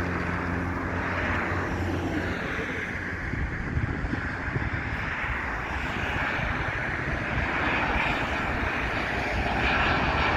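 Boeing 737 airliner's jet engines, a steady rushing roar, growing a little louder near the end.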